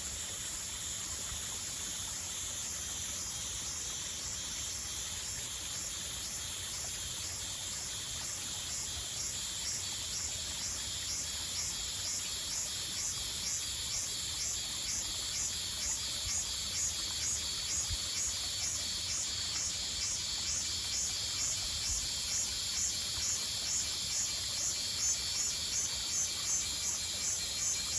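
Insects calling: a steady high-pitched buzz with a rhythmic chirping over it, about two pulses a second, which grows louder after about ten seconds.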